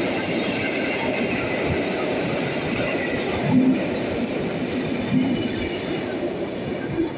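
Passenger coaches rolling past a platform in an enclosed underground station: a steady rumble of wheels on rail with brief wheel squeals and a few louder knocks, echoing in the platform hall. The last coach goes by near the end.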